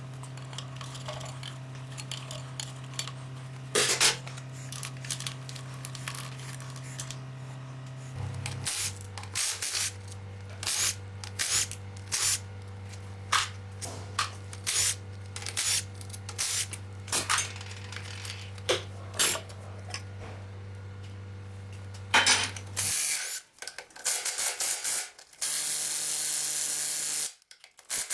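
Metal tools clinking and knocking against engine parts, many short sharp strikes, over a steady low hum that drops in pitch about a third of the way in and stops near the end. A steady hiss, like a spray or an air blow, follows in the last few seconds.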